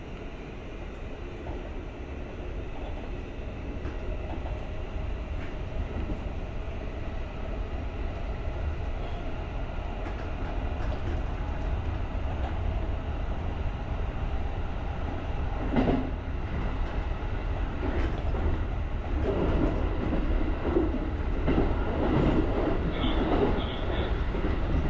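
JR rapid electric commuter train running along the track, heard from the driver's cab as a steady low rumble that slowly grows louder. Sharp clicks come about 16 and 18 seconds in. From about 19 seconds in, a busier clatter of wheels passes over rail joints or pointwork.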